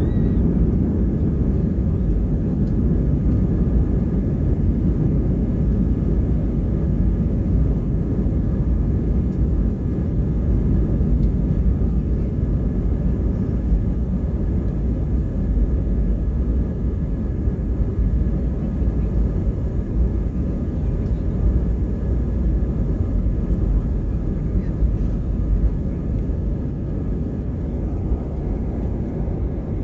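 Steady roar of jet engines and airflow heard inside an airliner's cabin shortly after take-off, with faint steady tones in the hum.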